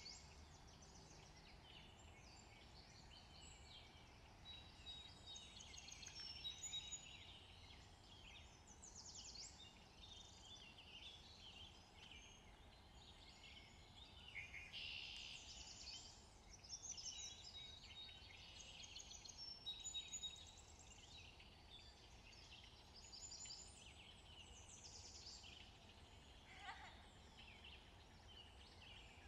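Faint chirping of small birds, many short calls overlapping throughout, over a low steady hum.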